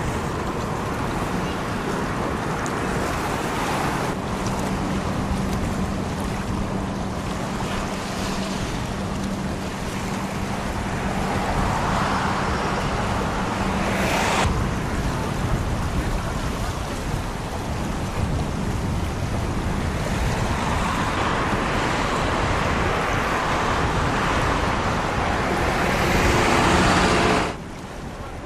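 Wind buffeting the microphone over open water, a steady rushing roar that swells and fades. A low steady engine hum runs under it for about ten seconds in the first half. The roar cuts off sharply near the end.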